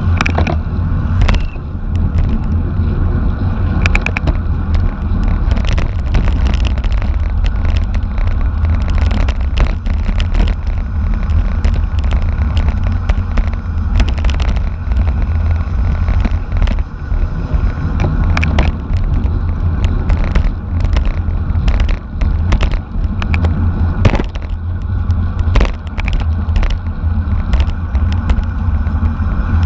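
Wind buffeting the microphone of a camera riding along in a bicycle race: a loud, steady low rumble with frequent short clicks and knocks from the bike and road.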